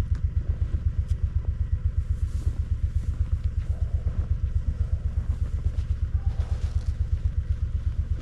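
An engine idling with a steady low chugging, about six or seven beats a second.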